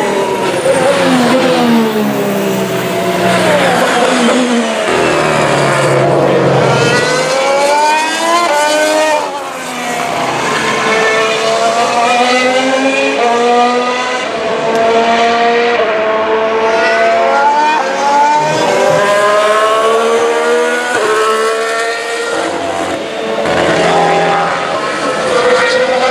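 Formula 1 cars' 1.6-litre turbocharged V6 hybrid engines racing past one after another. They accelerate up through the gears, the engine note climbing and dropping back at each upshift, with passes overlapping.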